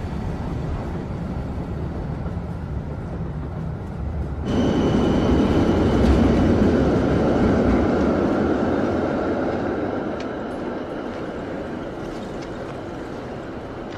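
Train running on rails: a low rumble, then about four and a half seconds in a louder rushing sound with a faint high whine sets in suddenly and slowly fades away.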